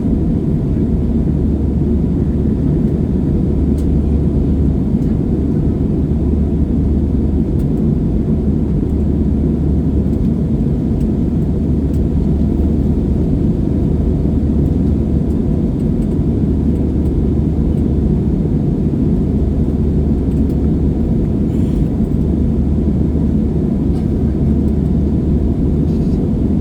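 Steady low drone of a jet airliner's engines and rushing air, heard inside the passenger cabin during the climb after take-off.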